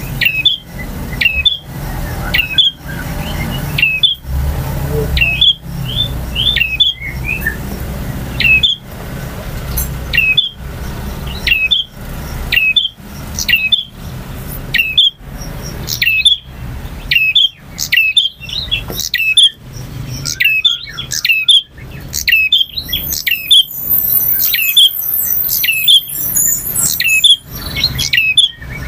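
Male prinia (prenjak) calling: short, sharp chirps repeated about once a second, with a thin, very high trill added near the end.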